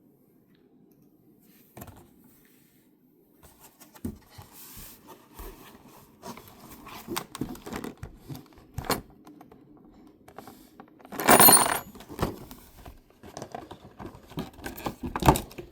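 Handling of the collection box's contents: scattered light clicks, rustles and clinks of cardboard, plastic and metal pieces, with a louder rattling crinkle about eleven seconds in.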